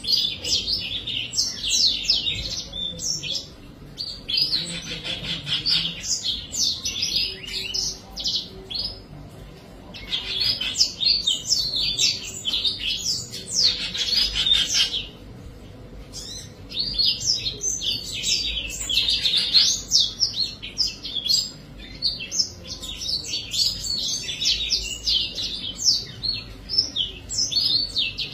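Small birds chirping rapidly in dense bouts of high, quick notes, with short pauses between bouts.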